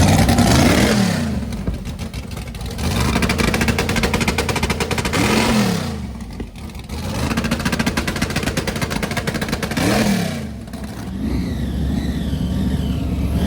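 Classic car engines running together and being revved. The engine note rises and falls three times, with a wavering high whine near the end.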